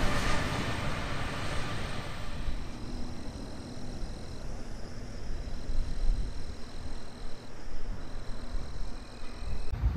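A passing train fading away over the first couple of seconds, leaving a low, steady rumble and outdoor background noise; the sound changes abruptly near the end.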